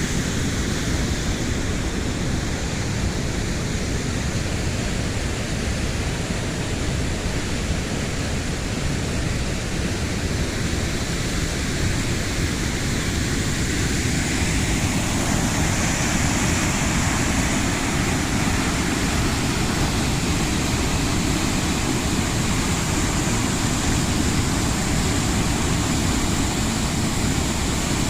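Waterfall rushing steadily, an even roar of falling water that grows slightly brighter about halfway through.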